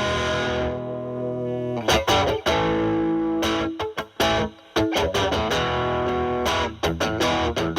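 Stratocaster electric guitar played through a Boss DS-2 Turbo Distortion pedal into a Marshall Valvestate amp's drive channel: distorted chords rung out and then choked off short several times, in a stop-start rhythm.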